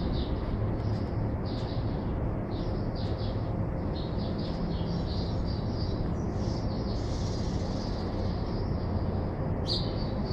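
Small birds chirping in quick, repeated short calls over a steady low background rumble.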